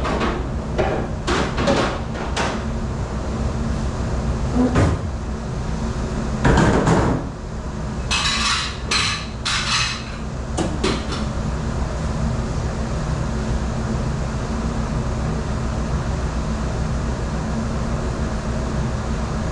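Dishes and dish racks clattering and knocking in a commercial dish room, in bursts through the first ten seconds or so, over a steady machine drone that continues alone after the clatter stops.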